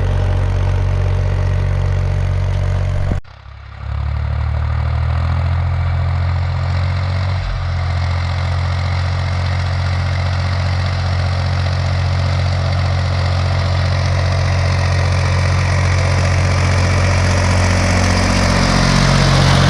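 Ursus 360 3P tractor's three-cylinder diesel engine running steadily. About three seconds in it drops out for half a second, then runs on, slowly getting louder and harsher towards the end.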